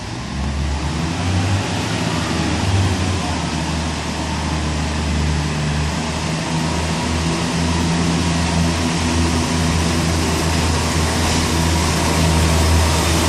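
Diesel train engine running steadily with a deep hum, growing slightly louder toward the end.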